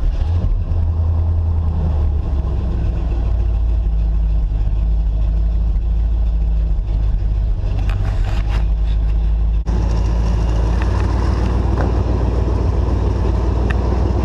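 Cadillac Eldorado's carbureted V8 catching and running steadily on choke, a start made easy by a block heater. The sound changes abruptly about ten seconds in.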